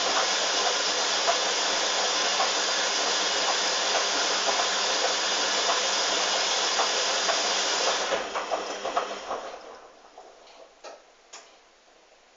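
Hoover front-loading washing machine on its first intermediate spin: a steady rushing spin noise. About eight seconds in the motor cuts out and the drum coasts down with a few rattles, and a couple of clicks follow near the end.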